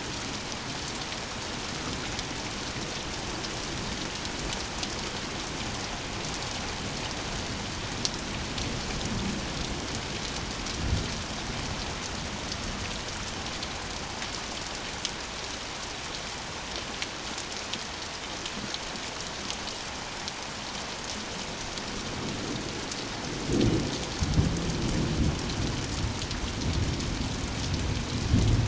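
Rainstorm: steady rain falling, with a brief low rumble of thunder about a third of the way in and a longer rolling peal of thunder starting about four-fifths of the way through.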